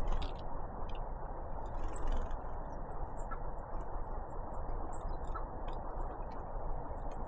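Small birds feeding: scattered sharp pecking clicks at irregular intervals and a few faint high chips, over a steady rushing hiss.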